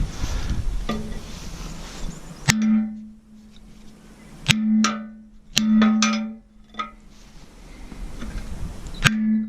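Hammer blows on steel, four strikes spaced a second or two apart plus a lighter tap, each strike leaving a short clear ringing tone. This is a bent fitting on a grassland roller's bearing housing being whacked straight.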